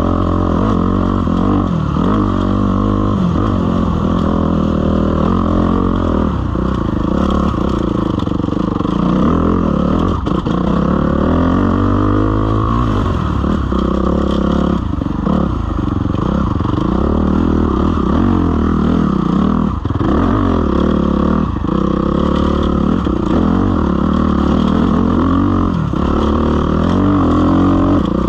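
Suzuki RM-Z250 dirt bike's single-cylinder four-stroke engine revving up and down over and over as it is ridden over a rough trail.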